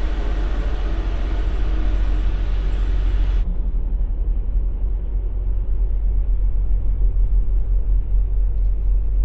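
Steady low rumble of a semi-truck's diesel engine heard from inside the cab, turning duller about three and a half seconds in.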